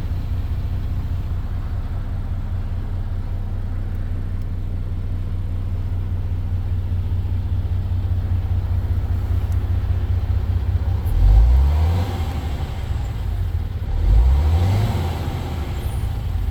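Truck diesel engine of a MAN 18.510 TGX idling steadily. It is blipped twice, about eleven and fourteen seconds in, each time rising briefly in pitch and dropping back to idle.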